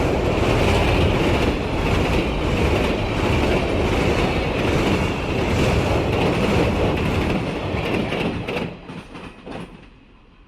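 Train passing close by, a dense rumble with rhythmic clickety-clack of wheels over the rail joints. The noise drops away quickly near the end as the last cars pass.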